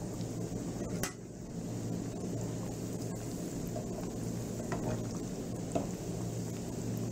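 Stuffed Thai pastries frying in hot oil with a steady sizzle. A utensil clinks sharply against the pan about a second in, and there are a couple of lighter taps later.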